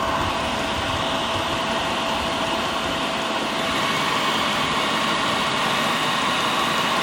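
Chinese diesel air heater running at full heat: a steady, pretty loud rush of combustion and blower with a thin, even whine over it.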